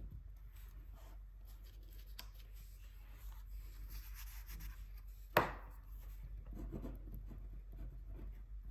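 Gouache being swatched: a paintbrush scratching and rubbing paint onto paper in quick strokes, with one sharp tap about five and a half seconds in.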